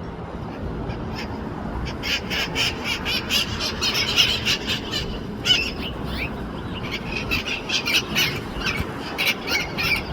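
Green parrots squawking: a dense run of short, harsh repeated calls starting about two seconds in and going on until near the end.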